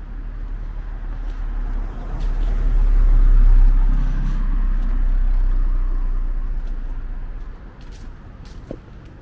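A car passing close by on the road. Its engine and tyre noise swells to a peak about three to four seconds in, then fades away.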